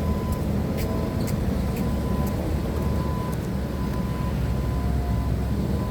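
Forklift engine running steadily with a low rumble, and a faint thin tone that comes and goes throughout.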